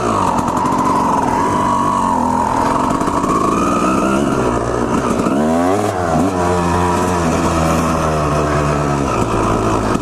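Two-stroke dirt bike engine running under throttle as it is ridden, which the rider takes to be a Honda CR250. Its pitch dips sharply and climbs back a little past halfway, and changes again near the end.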